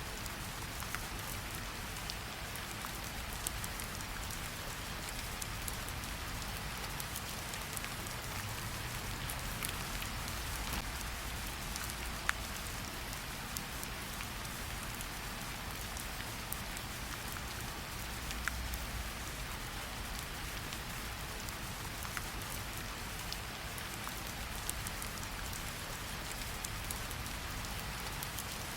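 Steady rain: an even hiss of rainfall with many scattered individual drop ticks, over a soft low rumble.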